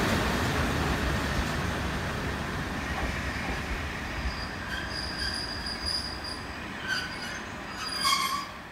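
JR Hokkaido local diesel railcar pulling away, its rumble fading steadily as it moves off. High-pitched wheel squeals come in about halfway through, with a louder squeal near the end.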